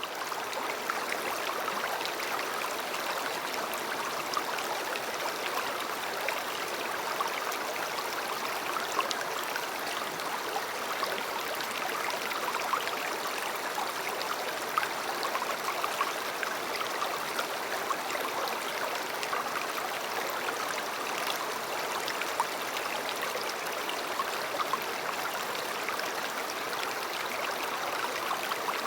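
River water flowing: a steady rush of running water with many small splashes through it.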